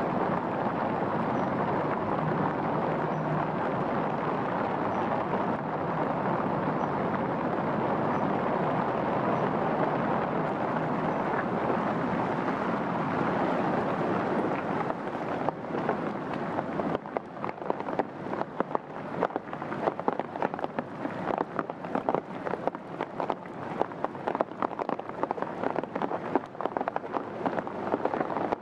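Rain falling, a dense steady hiss. About halfway through it turns into a close, irregular patter of separate large drops striking over the lighter hiss of the rain.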